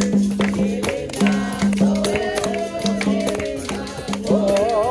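Live capoeira roda music. Repeated berimbau notes ring with a shaken rattle and hand percussion, and a singing voice wavers over them, strongest near the end.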